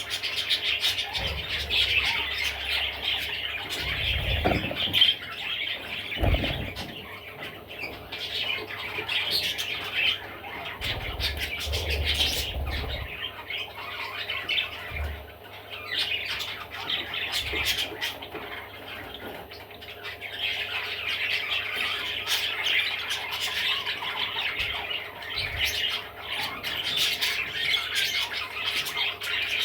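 Budgerigar chattering and warbling almost without pause, in a fast scratchy stream of chirps and squawks, with a few low bumps in the first half.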